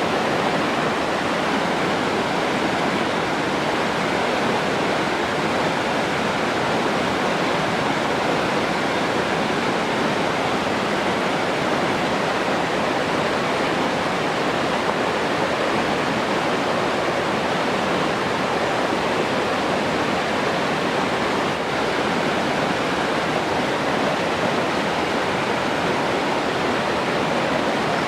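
Steady rushing of running water, an even roar with no rise and fall.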